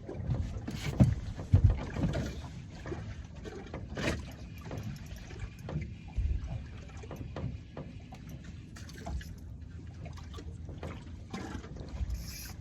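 Water lapping and slapping against the hull of a small boat, with scattered knocks from gear on board, the loudest about a second and a half in.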